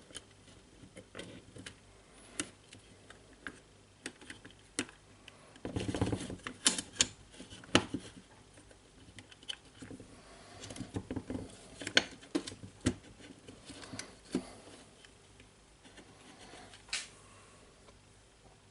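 Irregular clicks and taps of small metal and plastic jigsaw parts being handled and fitted into the tool's housing during reassembly, with a longer, louder clatter about six seconds in.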